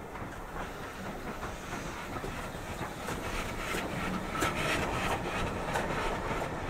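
Passenger coaches rolling slowly past close by, their wheels clicking over the rail joints, the clicks coming thicker and louder in the second half as the BR Standard Class 4MT tank engine 80080 at the rear of the train draws level.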